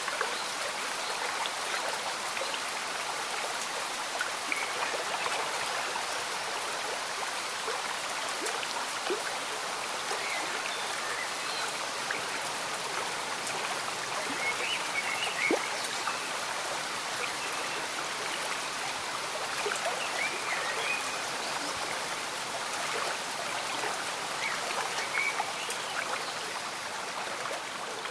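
A slow-moving stream bubbling steadily, with gentle rain falling.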